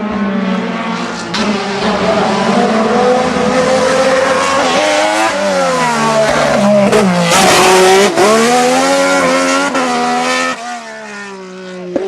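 Racing car engine at full throttle as the car climbs past on a hillclimb, the revs rising and dropping sharply through several gear changes and lifts, loudest a little past the middle, then fading as it goes away near the end.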